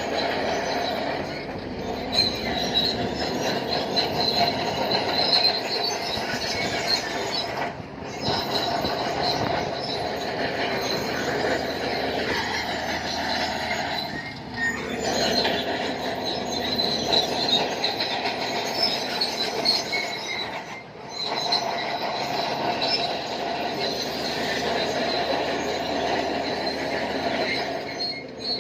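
Shantui DH7-C2 crawler bulldozer working, its steel tracks squealing and clanking over the diesel engine's steady running.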